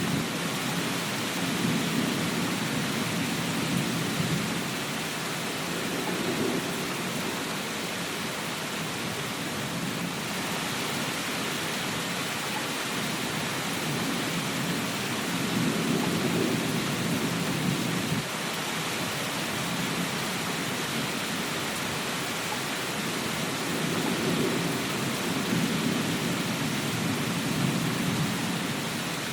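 Steady rain falling, with low rolling thunder that swells and fades three times; one rumble cuts off suddenly.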